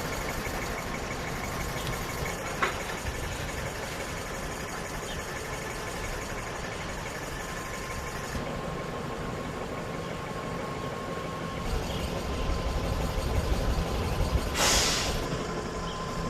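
An electric city transit vehicle running, with a thin steady whine over a rumble that grows heavier about three-quarters of the way through. A short hiss of released air comes near the end.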